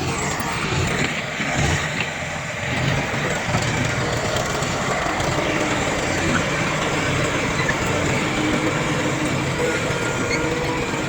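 Heavy diesel earthmoving machinery, bulldozer and dump truck engines, running steadily under work.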